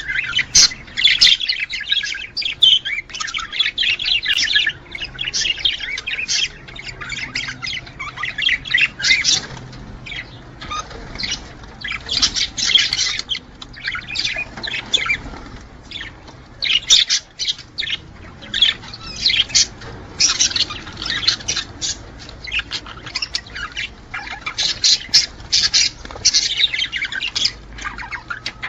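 Budgerigars chattering and warbling: a dense, unbroken stream of quick chirps and squawks, the kind of warbling male budgies give in breeding condition.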